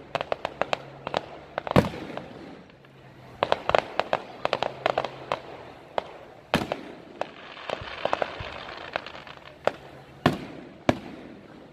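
Aerial fireworks display: quick strings of sharp cracks from crackling shells, with louder single booms of shells bursting about two, six and ten seconds in. Near eight seconds there is a hissing, glittering crackle.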